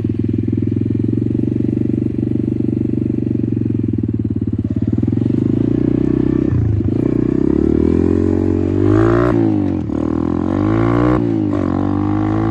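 Apollo RFZ 125 dirt bike's single-cylinder four-stroke engine running at a steady idle, then revving up and down several times from about six seconds in.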